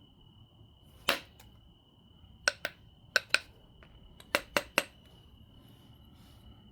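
Knapping strikes on an obsidian biface: about eight sharp glassy clicks, one alone and then in quick groups of two and three, as flakes are struck off the stone. A cricket chirps steadily behind.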